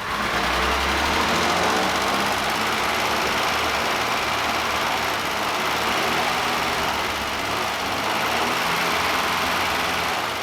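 Willys Jeep engine running at a steady, raised speed. It is starving for fuel, a problem the owners trace to the carburetor float level or the fuel pump.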